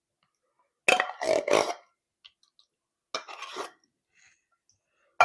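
A spoon scraping and clinking against a can and a mixing bowl in two bursts, about a second in and about three seconds in, as thick condensed cream of potato soup is scooped out of the can, with a sharp clink near the end.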